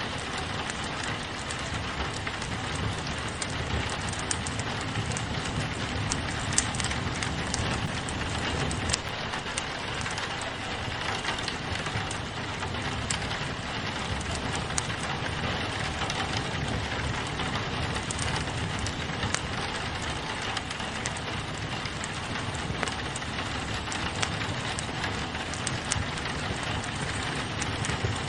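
Steady rain pattering on a window mixed with a crackling wood fire, with scattered sharp pops, the loudest about six and nine seconds in.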